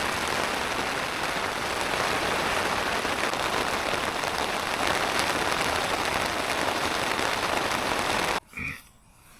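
Heavy rain drumming on the fabric of an Alpkit Tetri backpacking tent, a loud steady hiss of drops that cuts off suddenly near the end.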